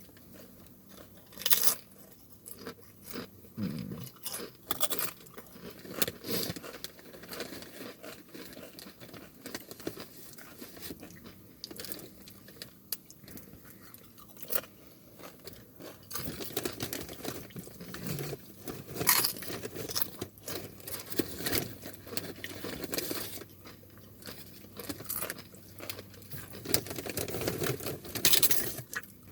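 Chips being bitten and chewed: irregular crisp crunches, with louder bites about 2, 19 and 28 seconds in.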